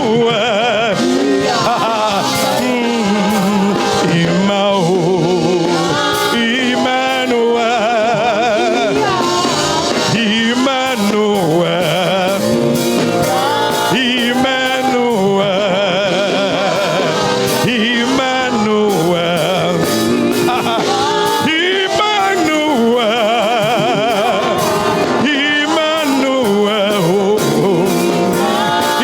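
Gospel worship music: singing with long, wavering held notes over accompaniment.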